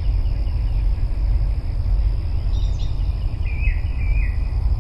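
Wind buffeting the microphone as a heavy, steady low rumble, with a thin steady high-pitched whine throughout and a few faint bird chirps from about halfway in.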